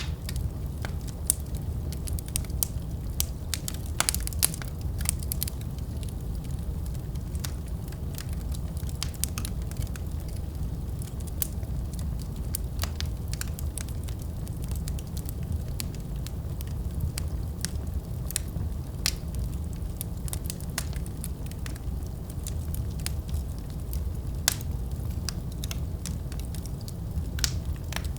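Wood fire in a fireplace crackling: frequent, irregular sharp pops and snaps over a steady low rumble of burning.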